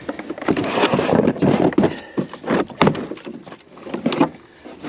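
A quick, irregular run of knocks and clatter, like hard objects being handled and set down, with a sharp click near the middle.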